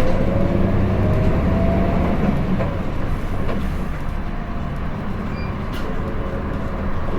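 Diesel engine of a Hino Blue Ribbon City city bus pulling away from a stop, heard from inside the cabin: a rising whine as it accelerates in the first second or so, then a steady engine rumble.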